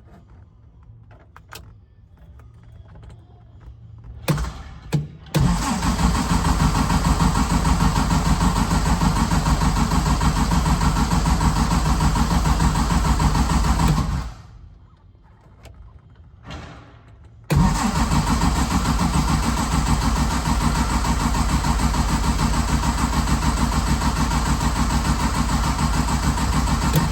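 A 1957 Morgan's engine on a cold start. After a couple of clicks, about nine seconds of loud, even, pulsing engine sound cut off abruptly. A short burst follows a lull, then the engine sound starts again suddenly and runs for another ten seconds.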